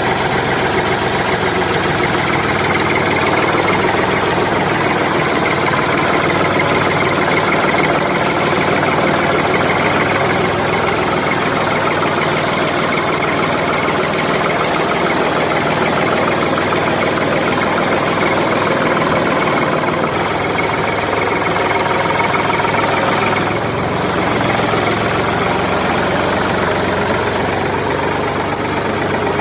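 A steady, loud engine-like running sound, unbroken apart from a short dip about 23 seconds in.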